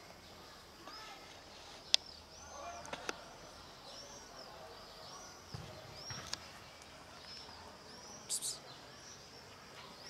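A small bird chirping over and over, short high arched notes about once a second, with a few sharp clicks and a brief crackle like twigs or dry grass snapping.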